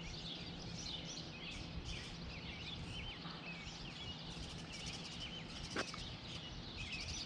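Several songbirds chirping and singing over a steady low outdoor rumble, with a single short knock a little under six seconds in.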